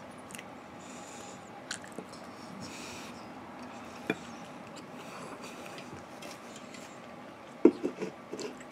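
A person chewing a mouthful of chicken and rice, with a few small clicks, and a sharp knock near the end.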